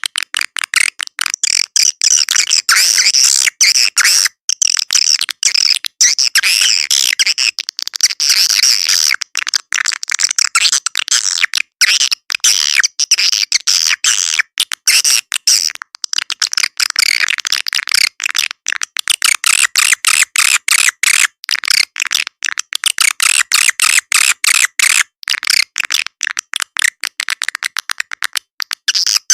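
Swiftlet call track (suara panggil walet): dense, rapid twittering and chirping of swiftlets, high-pitched and choppy with many short breaks. It is a lure recording played to draw swiftlets into a nesting house.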